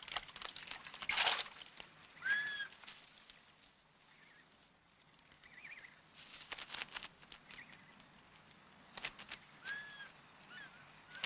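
Splashing and flapping in water as a fish eagle strikes at prey and struggles at the surface, in several short bursts, with a few brief arched bird calls.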